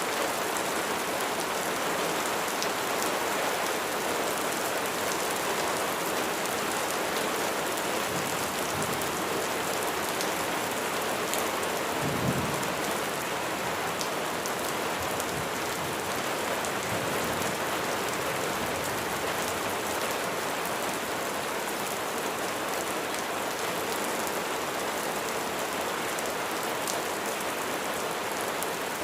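Steady rain falling, an even hiss without a break, with a brief low thump about twelve seconds in.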